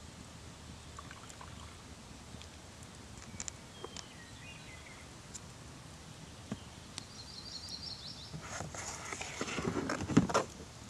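Quiet outdoor ambience with a few faint bird chirps and a short bird trill. Near the end comes a louder burst of rustling with knocks and clicks that stops just before the end.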